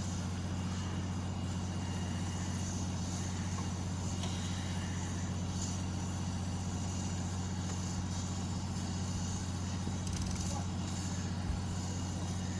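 Steady low mechanical hum at a constant pitch, with no rhythm or change in level.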